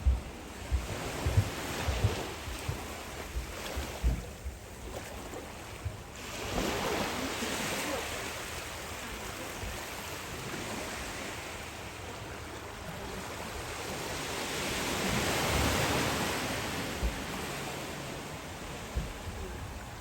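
Surf washing onto a beach, rising and falling in two slow swells about eight seconds apart, with wind rumbling on the microphone.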